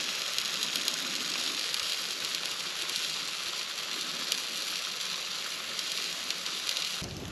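Campfire hissing and sizzling steadily, with a couple of faint pops.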